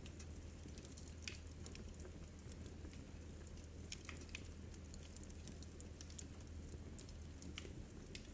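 Wood fire burning in a fireplace, crackling with irregular sharp pops, the strongest about a second in and about four seconds in, over a steady low rumble.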